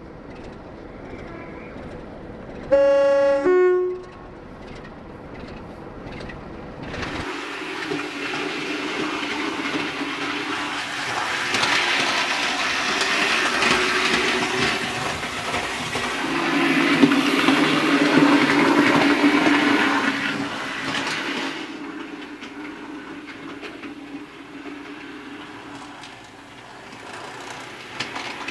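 A diesel locomotive's two-tone horn sounds once briefly, a higher note then a lower one. A few seconds later a train passes with rushing wheel and rail noise and engine drone, growing louder and then fading away.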